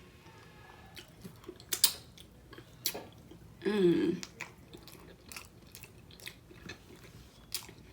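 Close-miked eating sounds: chewing a homemade ground turkey burrito, with wet mouth clicks and smacks scattered throughout, the sharpest a little under two seconds in. A short hummed 'mm' comes about three and a half seconds in.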